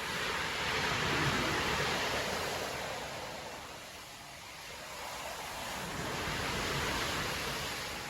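Storm waves breaking and washing up a beach: two surges of surf noise, the first peaking about a second in and the second near the end, with a lull between them.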